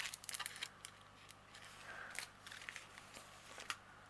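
Small plastic packets of diamond painting drills being handled and sorted: faint crinkling and a scatter of light clicks.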